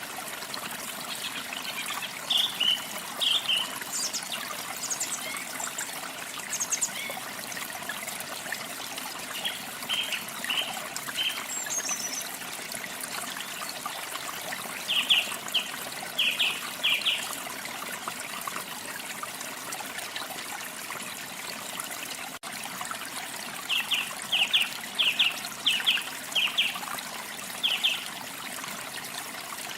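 Water trickling steadily, with songbirds chirping over it in short runs of quick, high notes: a few a couple of seconds in, more around the middle, and a longer run near the end.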